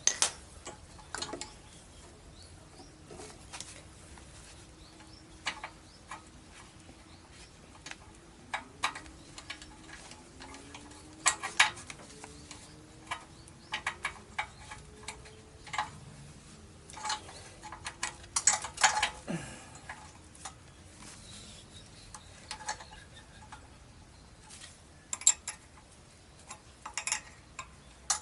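Scattered light clicks and taps of hand work on metal parts, bunched in a few clusters, with a faint wavering squeak in the middle stretch.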